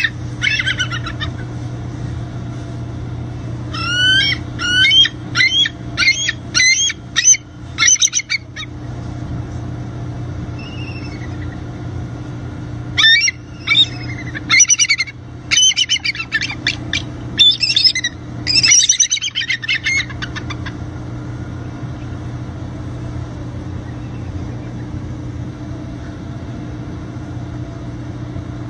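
A bird calling in three spells of rapid, repeated high chirping notes with pauses between them, over a steady low hum.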